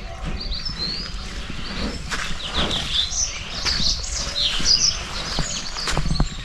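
Several birds chirping in quick, high, overlapping calls, with a few sharp clicks near the end.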